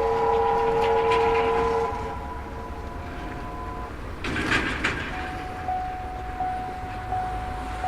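SY-class steam locomotive's chime whistle sounding one long multi-note blast that stops about four seconds in. A short rush of steam follows, then a thin steady high tone with a soft pulse under it.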